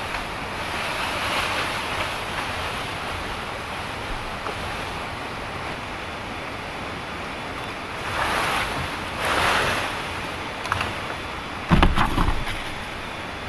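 Heavy rain falling steadily, an even rushing hiss, with a couple of louder swells in the second half and a short low knock near the end.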